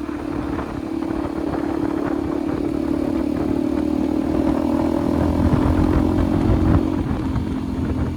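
Motorcycle engine running at a steady cruise, its note holding and dipping slightly near the end, with low road and wind rumble that builds toward the end.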